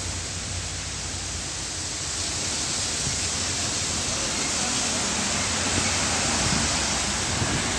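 Steady rushing noise of road traffic, a broad hiss over a low rumble, swelling a little midway.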